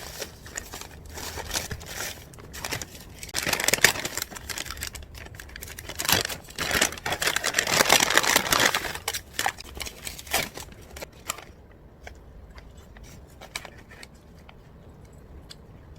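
Packaging crinkling and being torn open, with many sharp crackles for about eleven seconds, then quieter handling with scattered small clicks.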